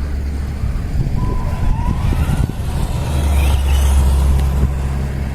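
Electric motor of a 1/10 scale ECX Torment RC short course truck whining as it drives, rising in pitch about two seconds in, over a steady low rumble.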